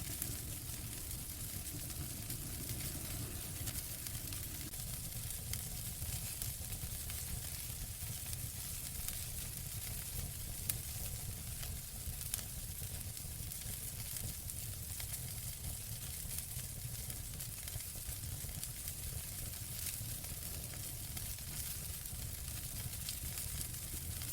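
Wood fire crackling in a fireplace: a steady hiss dense with small pops over a low rumble, with a couple of sharper pops about halfway through.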